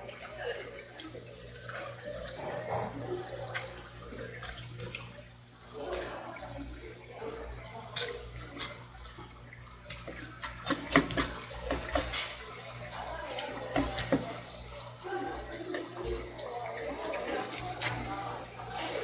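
Water running from a tap at a sink, with scattered sharp clicks and knocks from the fish being washed and handled during cleaning.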